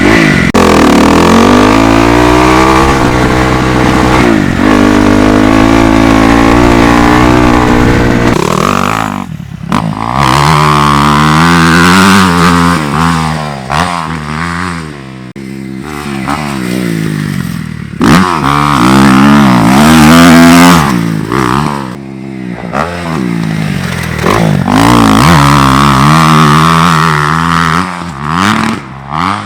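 Dirt bike engine revving hard and easing off again and again as it is ridden around a track. The pitch climbs, drops back, then climbs again several times, with a few short dips where the throttle closes.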